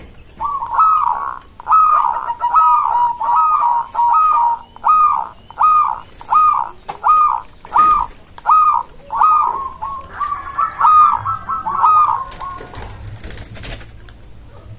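Zebra dove (perkutut) cooing: a long, even series of short coo notes, about one and a half a second. Near the end the notes run together, then stop a couple of seconds before the close.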